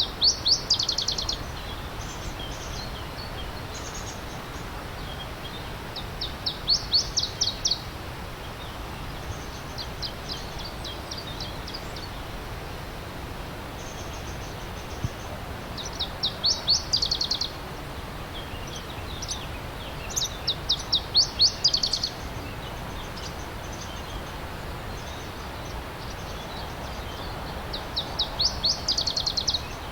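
A songbird repeating a short, fast trill of rapidly repeated high notes, six phrases spaced a few seconds apart, one of them fainter. Under it runs the steady rush of a flowing stream.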